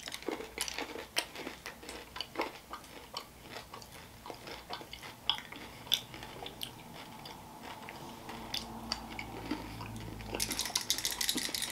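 Close-up chewing of a mouthful of Key Lime M&M's: irregular crisp crunches as the candy shells crack between the teeth, the crackle growing denser near the end.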